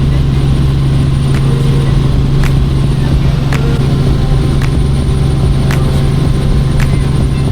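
Helicopter cabin noise: a loud, steady low drone of engine and rotor, with a faint tick about once a second.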